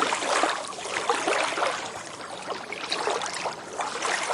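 Small waves lapping on a beach, the water splashing and washing in uneven surges.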